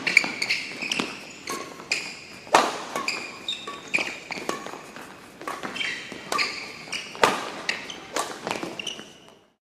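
A badminton rally in a sports hall: sharp racket hits on the shuttlecock and footwork on the court, with short shoe squeaks, all echoing. The sound cuts off suddenly near the end.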